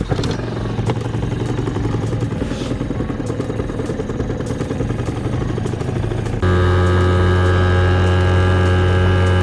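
Small Yamaha 2 hp outboard motor running at a steady speed. About six seconds in the sound abruptly becomes louder and smoother.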